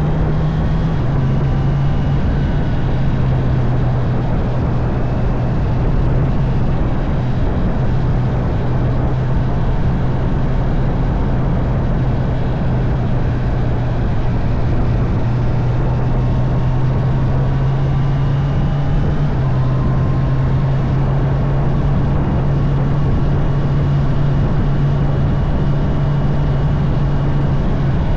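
Honda CB650R's inline-four engine running steadily while riding, its pitch holding nearly level with small shifts as speed changes, over a constant rushing noise.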